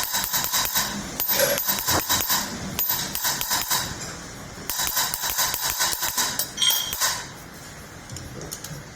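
Rapid metallic clicking from hand-tool work during a fitting job on a tractor, about five or six sharp clicks a second in two runs of a few seconds each, stopping around seven seconds in.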